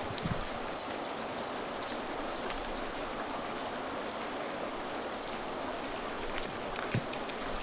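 Steady rain ambience with scattered sharp ticks and faint crackles from a fire crackling in the mix, and a brief low thump near the end.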